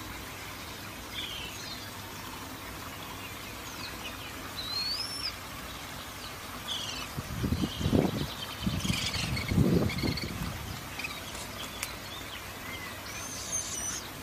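Small birds chirping and whistling here and there, some calls sliding up or down in pitch, over a steady hiss. A little past halfway come two louder, low, muffled noises, the loudest sounds here.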